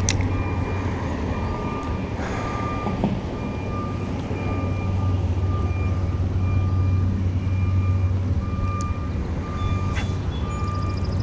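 A vehicle's reversing alarm beeping about once a second at a fixed pitch, over a steady low engine hum.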